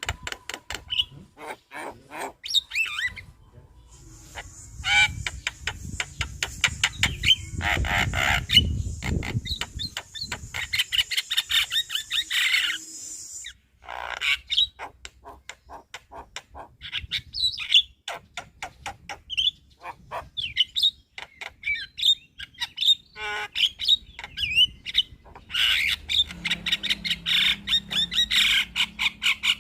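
Javan myna (jalak kebo) singing a fast, varied stream of short chattering notes, clicks and gliding whistles. A harsh, rasping stretch runs from about four seconds in to about thirteen seconds, followed by a brief pause before the chatter resumes.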